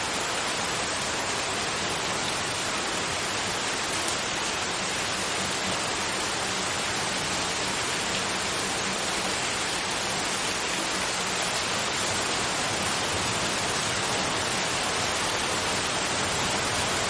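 Steady, continuous white noise: an even hiss with no changes, much like rain or a waterfall.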